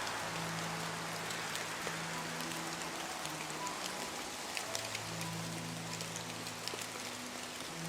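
Steady rain falling, with scattered sharp drop clicks, over soft background music of long held low notes that change every few seconds.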